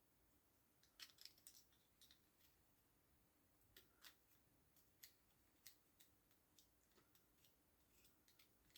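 Faint, scattered light clicks and ticks at irregular intervals, from small tools and parts being handled while working on a robotic mower's wheel motor.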